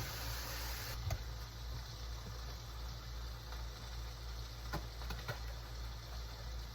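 Quiet kitchen background: a steady low hum with a few light knocks, about one second in and twice near the end.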